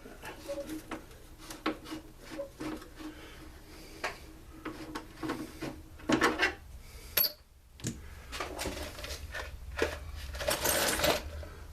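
Scattered clicks, knocks and clatter of hand tools and engine parts being handled while a backpack blower is taken apart, with louder bursts of clattering about six seconds in and near the end.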